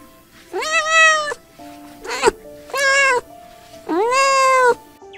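A kitten mewing four times in high calls, the second one short, over quiet background music.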